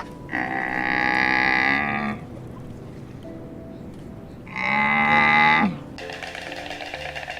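Cow mooing twice: a long call, then after a pause a shorter one that drops in pitch at its end, over quiet background music.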